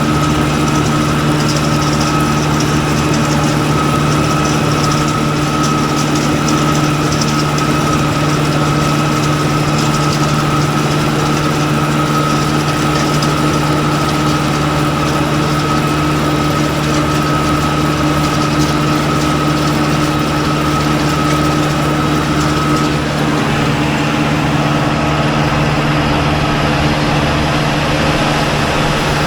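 Engine running at a steady speed, with a steady high whine over it that stops about 23 seconds in.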